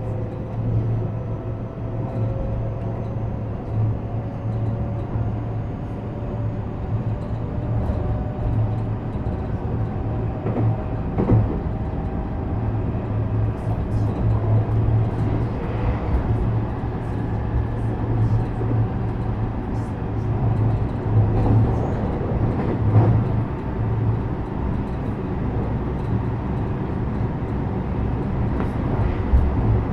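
Interior running sound of a JR West 321 series electric train at speed: a steady low rumble and hum, with a faint motor whine that climbs slowly in pitch over the first several seconds. Sharp knocks from wheels over rail joints come every few seconds, louder about eleven seconds in, around twenty-three seconds, and near the end.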